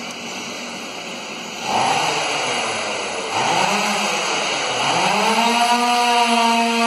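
A motor revving, its pitch rising and falling twice, then climbing and holding high and steady before it cuts off suddenly.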